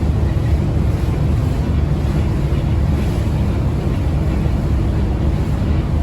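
Steady low drone of a car ferry under way, with its engine hum and the rush of wind and water unbroken throughout.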